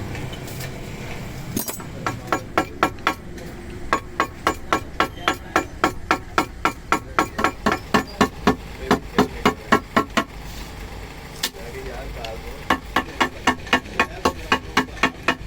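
Hammer blows on metal in quick, even runs of about three or four strikes a second, each with a short ring. There are two long runs, with a pause of about two seconds between them.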